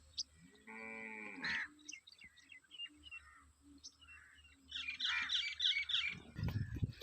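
Birds chirping in the open, with one pitched animal call about a second long near the start, and a quick run of repeated chirps about five seconds in. A low rumble comes in near the end.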